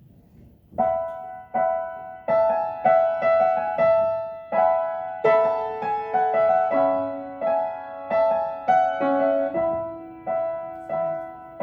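Piano playing the instrumental introduction to a song: repeated chords struck about every half second, each dying away, starting about a second in, with lower notes joining about five seconds in.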